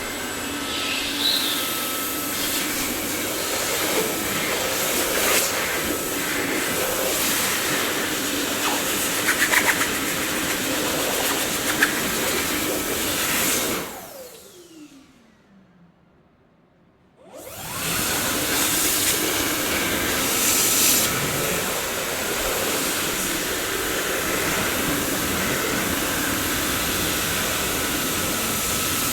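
Dyson vacuum cleaner motor running steadily. About fourteen seconds in it is switched off and its whine falls in pitch as the motor spins down. After a few seconds of near silence it starts up again and runs on.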